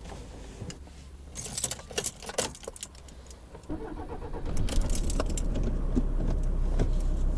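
Car keys jangling and clicking in the ignition, then the car's engine starting about four seconds in and settling into a steady idle.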